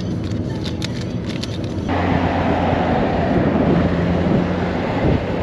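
A vehicle on the move: a steady low engine and road hum, then from about two seconds in a sudden, louder rush of wind and road noise that cuts off near the end.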